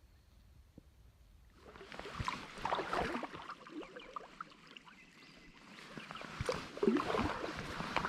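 Kayak paddle strokes splashing and dripping in river water, starting about one and a half seconds in and coming in uneven swells.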